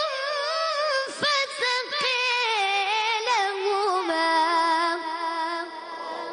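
A child's voice chanting Quran recitation in the melodic tajweed style: one long, ornamented phrase with a wavering pitch that steps down about four seconds in to a lower held note, which then fades.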